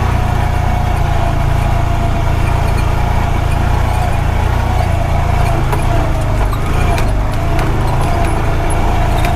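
Honda Pioneer 520 side-by-side's engine running steadily with a low hum, with a sharp click about seven seconds in.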